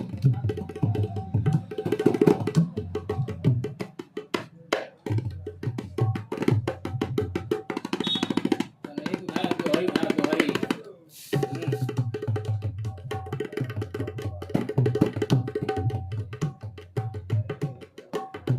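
Dholak, the two-headed Indian barrel drum, played solo by hand in fast, dense rhythmic strokes mixing low and sharper high strokes. A busier run builds, then the drumming breaks off for a moment a little past the middle and picks up again.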